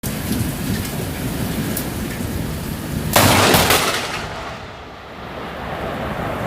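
Heavy rain hissing steadily, with a sudden loud crack of thunder about three seconds in that lasts under a second and then dies away.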